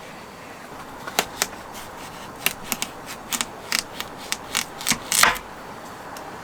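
A run of about a dozen sharp, irregular taps and clicks of hard objects being handled, the loudest a double knock near the end.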